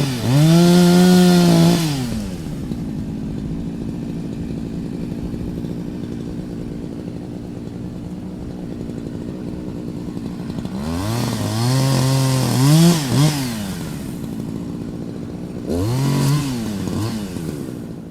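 Chainsaw engine idling, blipped up to high revs three times: a long rev at the start, a run of revs with quick blips about eleven to fourteen seconds in, and a short rev near the end. Each rev rises in pitch, holds, then falls back to idle.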